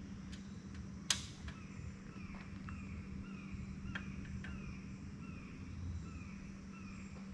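Nighttime outdoor ambience: a small creature repeats a short falling chirp about every two-thirds of a second, over a low steady hum. Scattered sharp campfire pops and crackles come through, the loudest about a second in.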